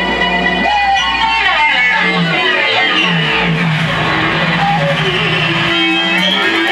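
Improvised noise music: a loud, dense layer of held electronic or guitar-like tones with sweeping pitch glides, some swooping down and back up, over steady low drones.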